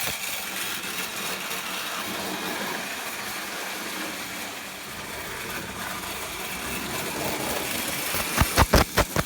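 Prewar Lionel O-gauge toy electric locomotive running on its track: a steady motor whir, with a quick run of about five clicks near the end.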